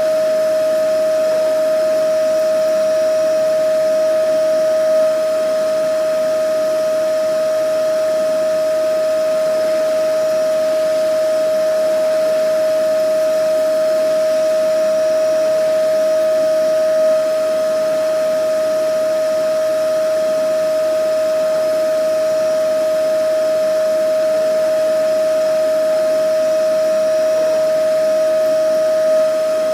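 Vacuum cleaner running steadily: a constant high-pitched motor whine over a rush of air, holding the same speed throughout.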